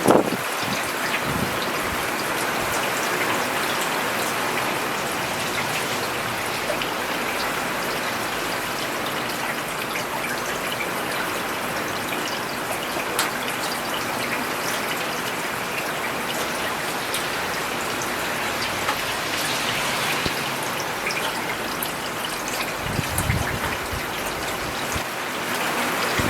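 Steady rain falling on a road: an even, dense patter with scattered sharper drops. A brief low rumble swells about 23 seconds in.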